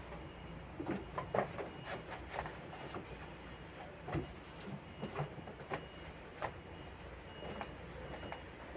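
Scattered light knocks, clicks and clatter of containers and shelves being handled in a refrigerator during cleaning, at an irregular pace, over a steady low hum.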